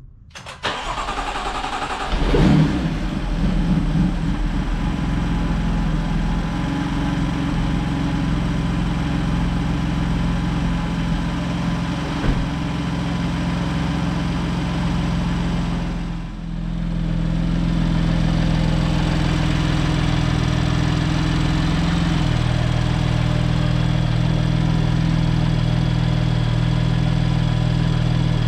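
BMW F80 M3's S55 twin-turbo inline-six, fitted with an M Performance exhaust, starts up with a quick flare of revs that falls back within a couple of seconds. It then settles into a steady idle. This is a start on freshly installed injectors with the fuel adaptations just reset.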